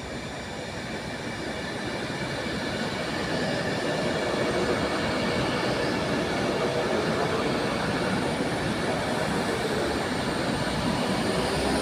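Avanti West Coast Class 390 Pendolino electric train, unit 390121, running into the platform. Its running noise grows louder over the first few seconds, then holds steady, with a faint high whine on top.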